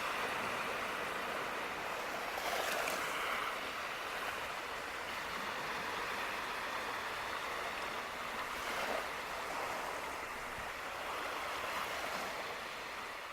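Baltic Sea surf washing on a beach, a steady rush of breaking waves that swells twice and fades out near the end.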